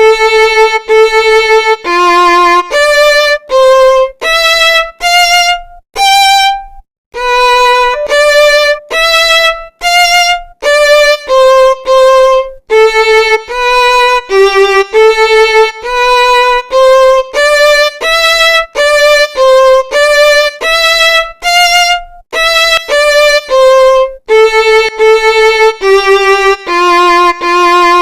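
Background music: a violin playing a melody of short, separate notes, one after another.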